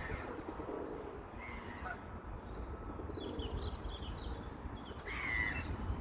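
Wild birds calling: a few short calls, the loudest about five seconds in, over a low steady rumble.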